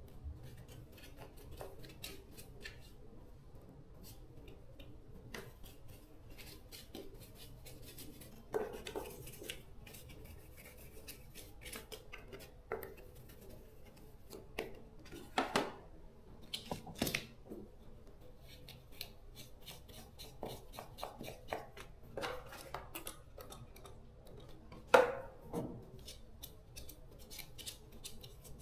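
Irregular small clicks and scrapes of hand-tool work on metal parts, with a few louder knocks, the loudest near the end.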